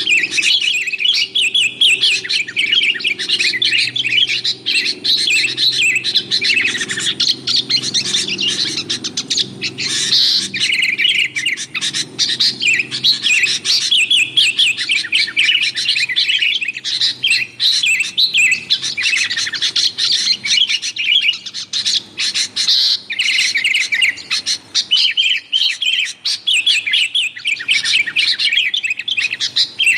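Sooty-headed bulbul in a dense, unbroken chatter of rapid chirps: the noisy, agitated calling used as a lure to draw in wild bulbuls.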